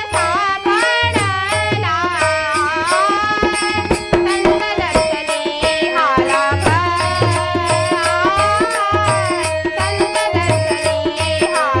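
Marathi devotional abhang music: a gliding, ornamented melody line over a steady drone, with tabla-type hand drums keeping a regular beat and sharp metallic clicks on the beat.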